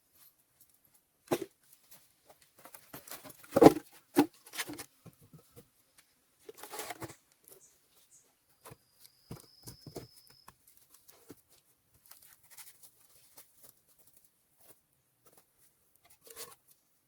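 Irregular rustling, crackling and knocking of close-up handling work, loudest in a cluster a few seconds in, with a brief thin high whistle about nine seconds in.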